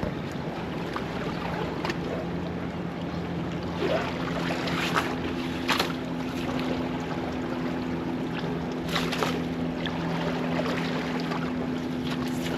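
A motor hums steadily over wind and water noise, a second, higher hum joining about four seconds in, with a few short knocks along the way.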